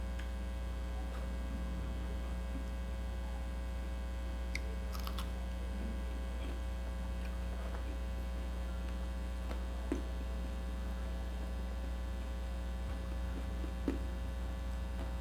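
Steady low electrical mains hum, with a few faint short clicks spread through it.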